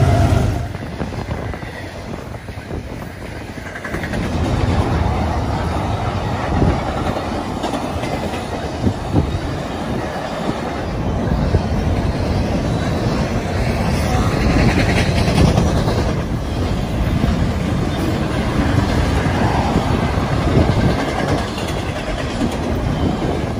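Freight train of double-stack container cars rolling past, wheels clicking over rail joints in a steady rumble. The trailing diesel locomotive's engine sound drops away in the first second.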